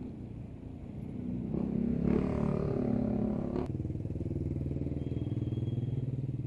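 A motorcycle engine running close by, loudest from about a second and a half to three and a half seconds in, then dropping abruptly to a steadier, lower hum.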